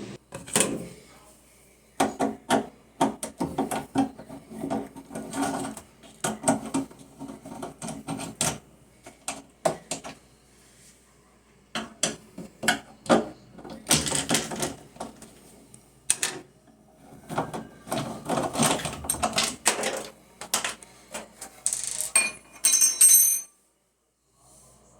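Irregular clattering and knocking with metallic clinks, in clusters broken by short pauses, and a bright metallic rattle near the end.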